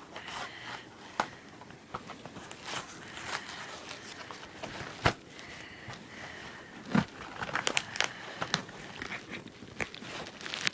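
Plastic and cardboard toy packaging being handled and pulled open by hand: irregular crinkling and crackling with sharp clicks, the loudest about five and seven seconds in.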